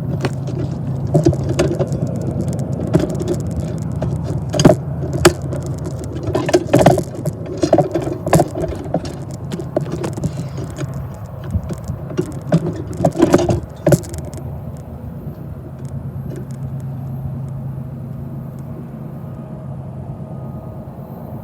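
Freight train cars rolling past. A steady low rumble carries irregular sharp metallic clanks and wheel clicks for about the first fourteen seconds, then settles into a smoother, quieter rumble.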